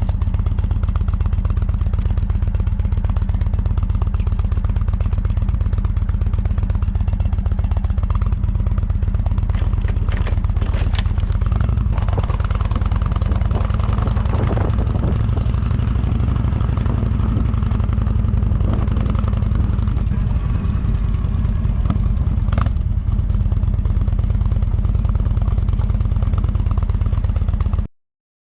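Motorcycle engine running steadily with a low, rapid pulsing. It cuts off suddenly near the end.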